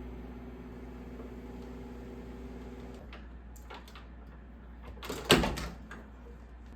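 Microwave oven running with a steady hum that cuts off about three seconds in. A few light clicks follow, then a single loud clunk of the door being opened.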